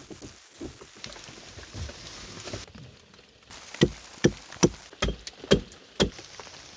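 Rain falling steadily, with a run of six sharp knocks about two a second in the second half.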